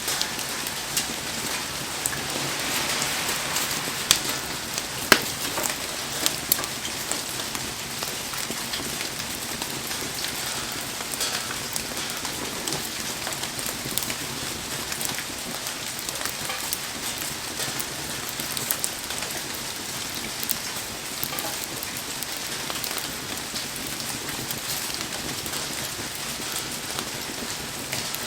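Heavy rain falling and pattering steadily, dotted with sharp clicks and pops; a few louder ones come about four to six seconds in.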